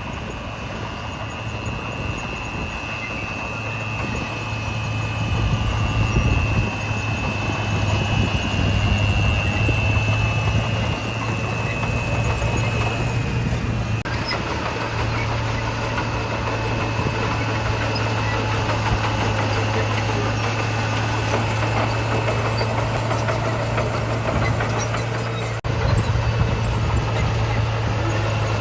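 Diesel engine of heavy earthmoving machinery running steadily with a low hum, getting louder a few seconds in, while a high whine fades out about halfway through.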